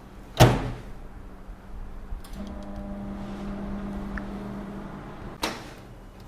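Microwave oven door shut with a sharp clack, then the oven running with a steady hum from about two seconds in. A second sharp clack comes near the end.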